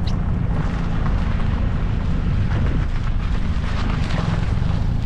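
Steady low rumble of a big classic car driving along: road, engine and wind noise heard from inside the car.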